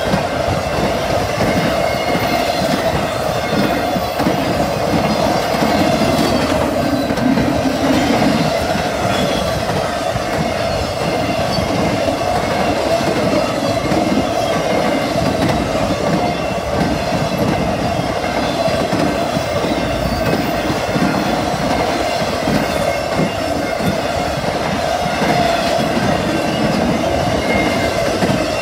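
Freight train's well cars, loaded with highway trailers and containers, rolling steadily past close by. Their wheels rumble and clatter on the rails, with a steady ringing tone over it.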